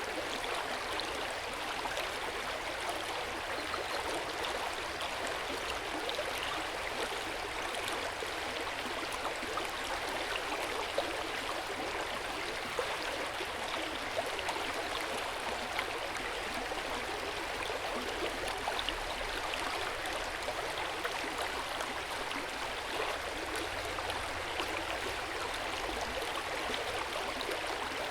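Hot spring water running into an open-air onsen bath: a steady, gentle splashing and trickling of water.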